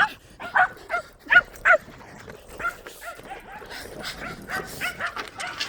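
Puppies barking during play: five loud, sharp barks in the first two seconds, then a quicker run of softer yips.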